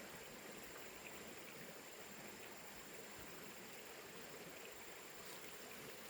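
Faint, steady background hiss with a thin, high-pitched whine held at one pitch, close to silence.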